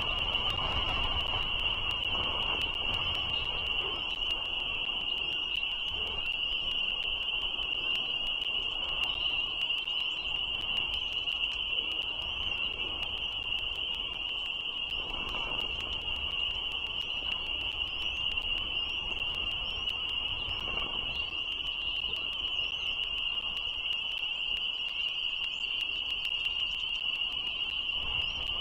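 Dense chorus of frogs, a continuous high-pitched ringing that holds steady throughout, with faint short chirps above it.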